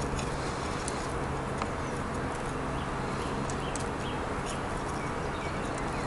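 Faint, scattered chirps from small aviary birds over a steady background hiss, with a few soft clicks.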